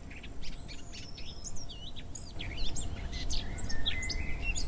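Several songbirds singing and chirping, quick high whistles and trills overlapping one another, over a steady low rumble of background noise.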